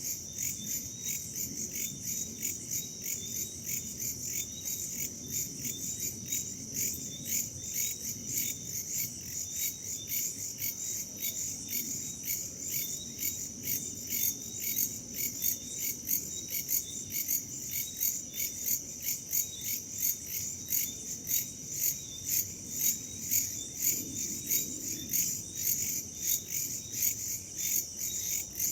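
A chorus of crickets and other insects chirping in a steady, rapid, high-pitched pulsing, with a low rumble of wind underneath.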